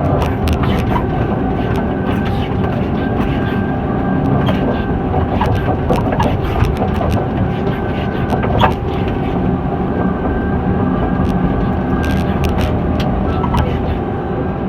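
John Deere 748L-II skidder's diesel engine running steadily, heard from the cab, with a faint steady whine, rattles and scattered knocks; one sharper clank comes about two-thirds of the way through.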